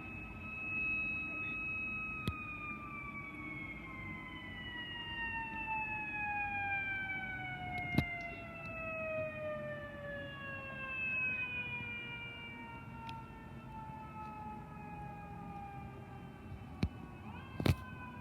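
A fire engine's mechanical siren holding a high wail, then winding down slowly in pitch over many seconds as it coasts. A few sharp knocks sound partway through and twice near the end.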